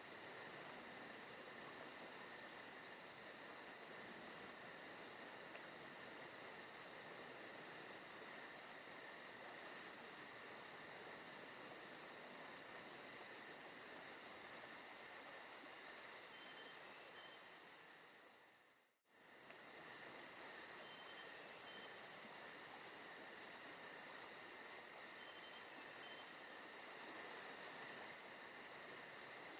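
Forest ambience: a faint, steady insect chorus with a few short chirps. It dips to silence for a moment about two-thirds of the way through and fades straight back in.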